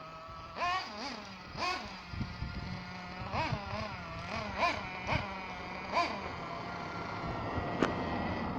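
Small nitro engine of an Ansmann Virus RC car revving up and dropping back in short bursts, about once a second, over a steady lower drone. A couple of sharp clicks come near the end.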